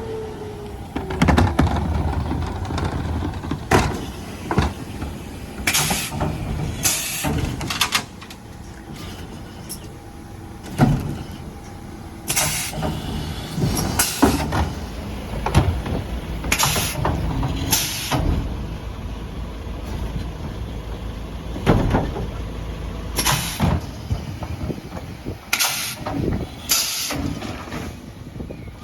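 Mercedes Econic refuse truck running with its diesel engine ticking over, while bins are lifted and emptied at the back: repeated knocks and bangs of wheelie bins against the lifters and body, and short hisses of air, often two close together.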